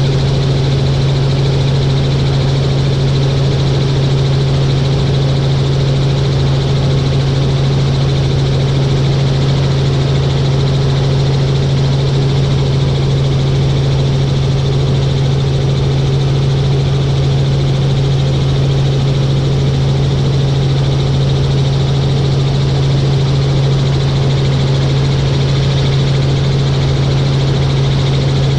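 Helicopter in flight: a steady, unchanging drone of rotor and engine, a strong low hum under a wide hiss.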